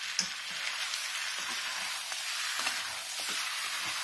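Chicken pieces in a thick, dry masala sizzling and frying in a pan over a high gas flame, at the bhuna stage where the spices are roasted with no water added. Light scrapes and clicks of the stirring spoon come now and then over the steady sizzle.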